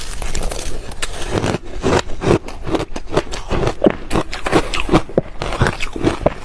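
Ice being crunched between the teeth: a run of sharp, irregular crunches, a few a second.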